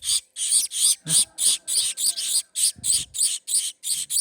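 Gouldian finch chicks begging, with a rapid, even run of short, high, harsh calls about three or four a second.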